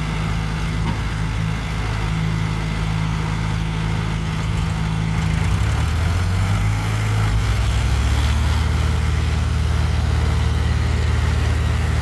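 Diesel tractor engine running steadily. From about five seconds in its note drops lower and gets a little louder, as an engine does when it lugs under load.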